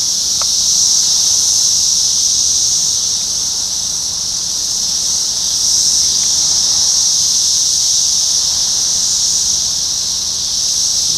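Loud chorus of Brood X 17-year periodical cicadas: a steady high-pitched buzzing drone that swells and eases a little in loudness.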